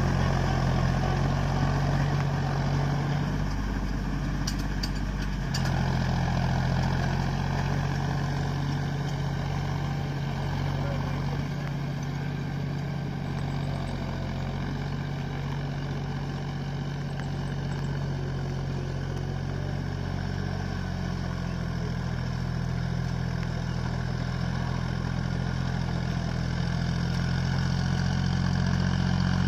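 John Deere 5050D tractor's three-cylinder diesel running steadily. Its note shifts briefly about four seconds in, and it fades a little mid-way before growing louder again near the end.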